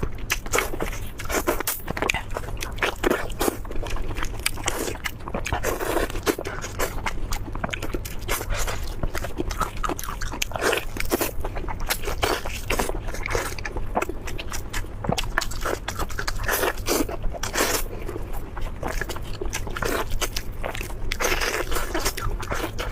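Close-miked eating: repeated bites and chewing with crunching, many short sharp clicks one after another, over a steady low hum.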